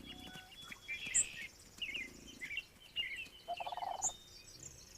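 Wild birds chirping and calling in scattered short notes, with a rapid chattering call of lower pitch about three and a half seconds in.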